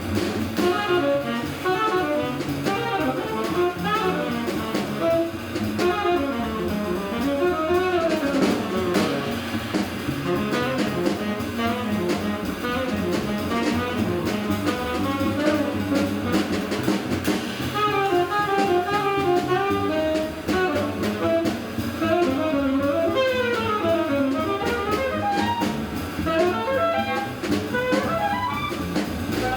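Jazz: a saxophone playing quick melodic runs over a drum kit.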